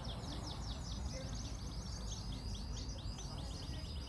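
Yellow-fronted canary singing fast runs of rapidly repeated high notes, over a steady low background rumble.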